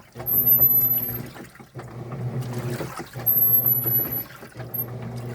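Washing machine running: a motor hum that swells and dips about every second, with water sloshing and a thin high whine that comes in twice.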